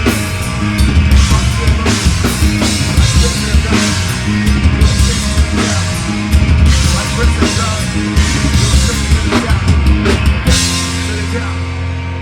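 Live metal band playing: pounding drum kit with distorted guitar and bass. About ten and a half seconds in, the drums stop and a held chord rings on.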